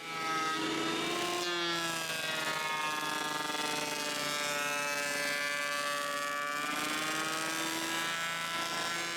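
Electric wood jointer running and jointing the faces of 2x4s: a steady motor-and-cutterhead sound whose pitch sags slightly now and then as it takes load.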